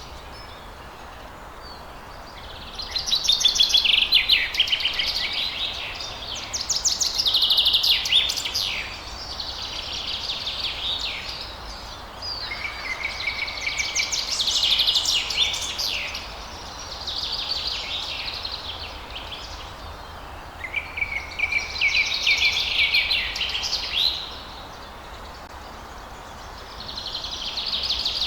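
Songbirds singing at dawn: high, trilling song phrases of one to three seconds each, repeated about every three or four seconds with short pauses between, over a steady low background hiss.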